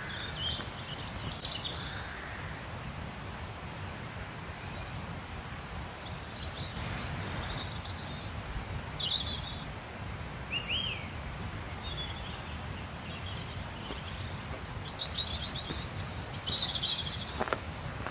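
Small birds chirping and singing in short, scattered calls and trills over a steady low outdoor rumble.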